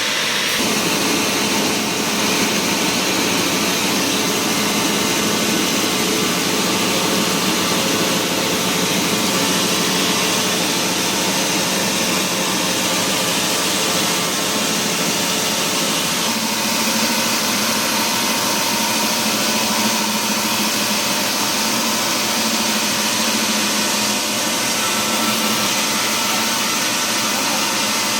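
Sawmill machinery running steadily and loudly, a continuous mechanical drone with a hiss on top, its low part shifting about 16 seconds in.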